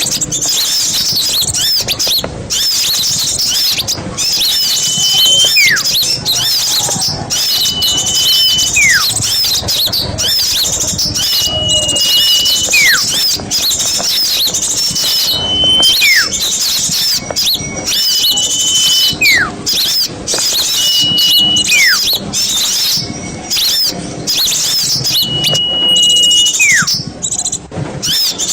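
Recorded small songbirds calling: a dense, high chattering runs throughout, over which a call repeats about every three to four seconds, a short held whistle followed by a long falling whistle.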